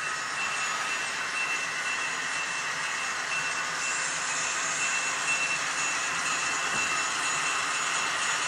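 Model train running on the layout track: a steady electric motor whine with a thin high tone, over the rolling noise of wheels on rail.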